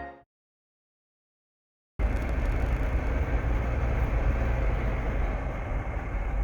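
Background music fading out, a gap of dead silence, then from about two seconds in the steady engine and road rumble of a moving vehicle.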